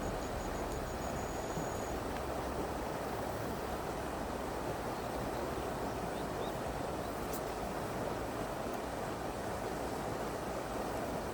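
Steady rush of a clear stream's flowing water, an even wash of sound with no breaks.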